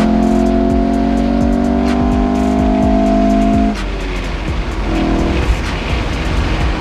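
Honda car engine heard from inside the cabin, pulling under acceleration with its note rising slowly and steadily over road noise. The engine note drops away suddenly a little past halfway, leaving mostly tyre and road noise.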